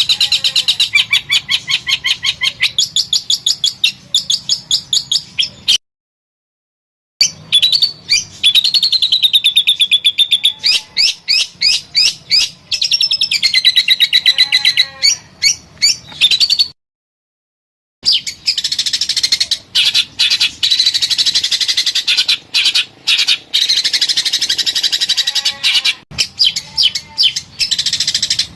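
Songbird song: fast runs of rapidly repeated high chirps and trilling phrases, with some sliding whistled notes. It cuts off twice into dead silence for about a second, where recordings are spliced.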